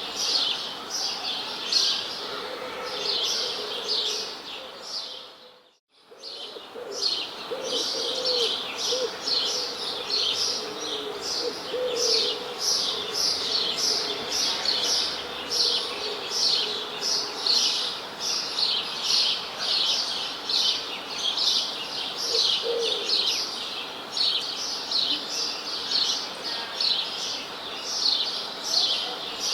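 A chorus of birds chirping continuously in quick, repeated high notes, with occasional softer, lower calls. About six seconds in, the sound fades out to near silence for a moment and comes back.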